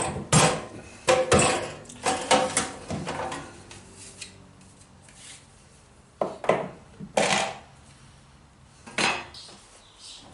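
Clattering and knocking of the heater's hard plastic casing parts and tools being handled while it is taken apart. A burst of sharp clacks comes at the start, then a few separate knocks later on.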